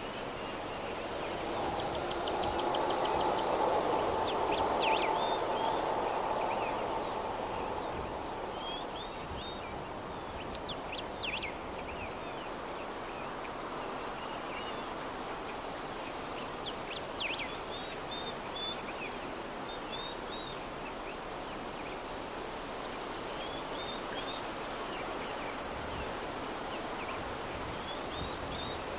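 Soft, steady breeze with small birds chirping on and off throughout. A few seconds in, a louder swell with a faint tone to it rises and fades away.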